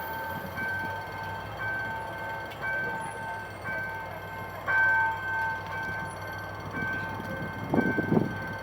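Level-crossing warning alarm sounding a two-tone electronic signal that pulses about once a second, over the low running of a diesel locomotive. Near the end come a few brief low rumbles.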